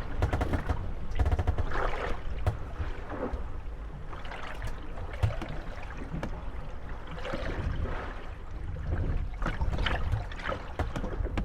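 Moored wooden gondolas rocking on choppy water, creaking and knocking against each other at irregular moments over lapping water and a low wind rumble.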